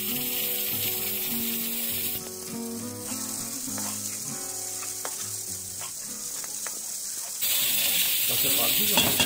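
Okra and chicken curry sizzling in oil in a large metal karahi while a long metal spatula stirs it. The sizzle drops away about two seconds in and comes back louder near the end, with the spatula scraping the pan a few times. Soft background music plays underneath.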